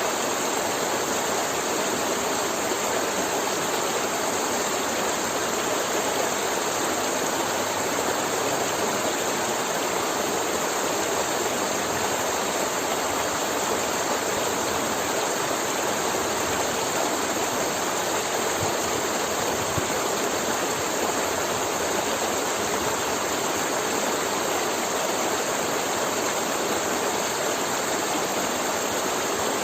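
River water flowing and gurgling over rocks, a steady even rush of water with no let-up.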